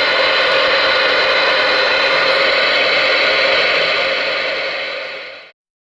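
Galaxy DX-98VHP ten-meter radio's speaker hissing with loud, steady receiver static. The hiss eases slightly and then cuts off suddenly about five and a half seconds in.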